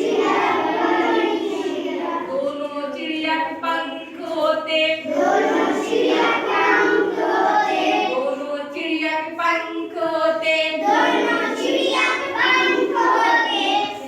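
Children and a woman singing a Hindi nursery rhyme together in chorus, chanting its repeated lines.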